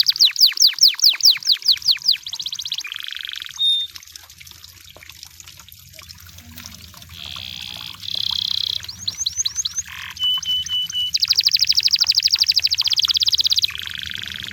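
A canary singing in tours. It opens with a fast trill of repeated falling notes, then gives a buzzy roll and falls mostly quiet for a few seconds. It comes back with buzzy rolls, a short trill and a few short steady notes, and near the end runs into a long, very rapid roll followed by another buzzy note.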